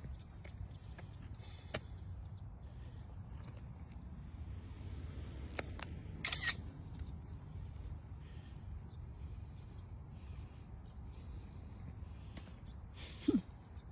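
Outdoor ambience: a steady low rumble of wind with faint, scattered high bird chirps and a few small clicks, and one short louder sound near the end.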